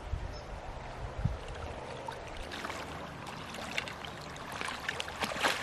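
River water running steadily, with a few low thumps in the first second or so and crackling splashes building near the end.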